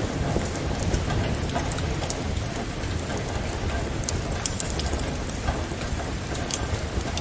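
Steady rain with a low rumble, mixed with scattered small pops and crackles from a wood fire.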